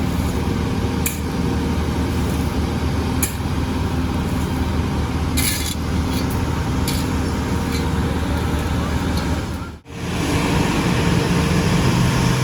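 Heavy paving equipment and trucks running steadily, with a few short hisses over the engine hum. About ten seconds in, the sound drops out for an instant and comes back with a different engine note.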